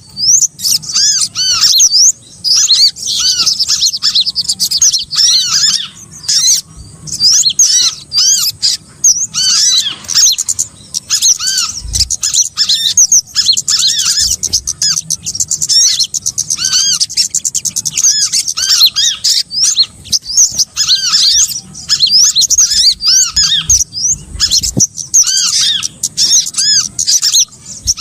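Bird-lure recording of small songbirds calling: dense, overlapping high chirps and twitters, with short hooked lower notes repeated over and over.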